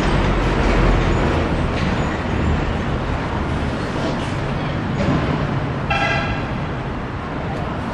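Steady rumble of a CRH1A electric multiple unit running along the line and slowly fading as it moves away. A short horn toot sounds about six seconds in.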